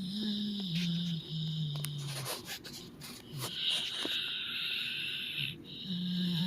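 Dog snoring in its sleep: long, low, drawn-out snores, broken by a few short clicks.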